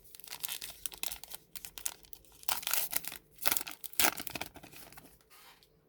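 Crinkling and tearing of a trading-card pack wrapper being handled and ripped open, in irregular crackles, loudest in the middle and dying away near the end.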